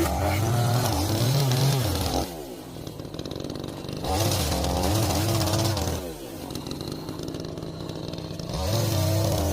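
Two-stroke chainsaw engine running at high revs, dropping back toward idle about two seconds in, revving up again about four seconds in, dropping again about six seconds in and revving up near the end.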